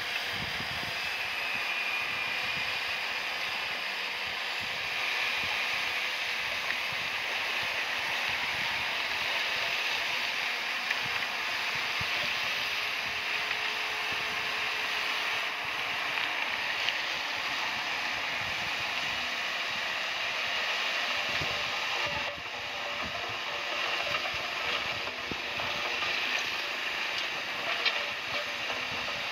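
Komatsu bulldozer working, a steady metallic clatter and grind of machinery with occasional small knocks.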